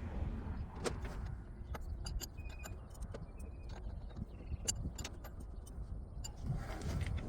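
Scattered light metallic clicks and clinks of air line fittings and hand tools being worked onto a new air dryer unit, over a low steady rumble.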